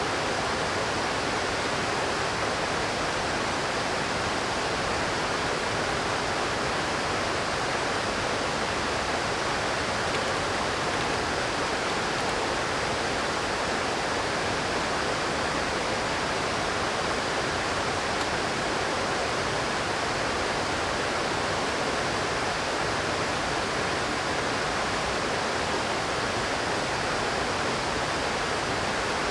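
Mountain river rushing steadily, an even unbroken hiss of water with no change in level.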